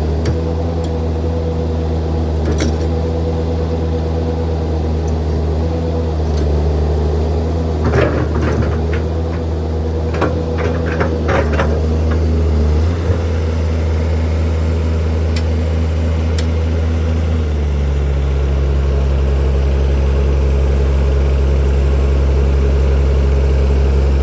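Diesel engine of heavy earthmoving machinery running steadily, with a cluster of sharp knocks in the middle. About two-thirds of the way through, the engine note drops slightly and gets louder.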